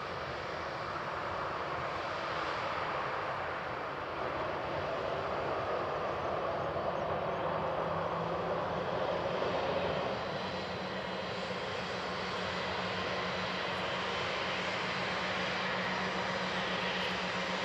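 Airbus A320's CFM56-5A1 jet engines running, a steady engine noise with a low hum, growing gradually louder.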